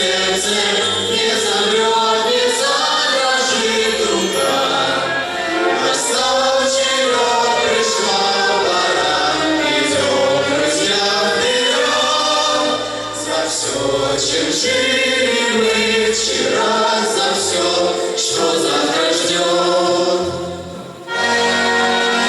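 A choir singing a slow waltz-time song to an instrumental accompaniment.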